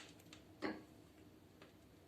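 Wood fire crackling in a fireplace stove: a few sharp, irregular pops and clicks, the strongest right at the start and about half a second in.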